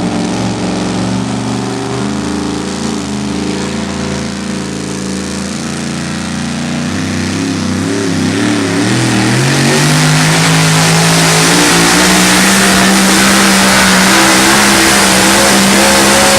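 Modified two-wheel-drive pulling truck's engine running hard at high revs during a pull. The pitch wavers and dips about halfway through, then climbs and holds high as the sound grows steadily louder.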